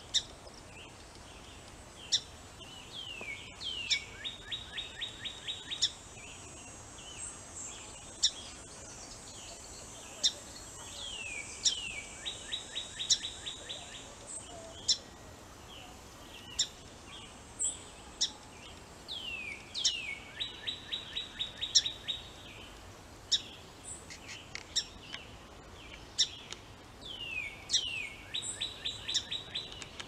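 A songbird repeating the same song about every eight seconds: a few downslurred notes, then a rapid, even trill. Sharp single chip notes sound between the songs.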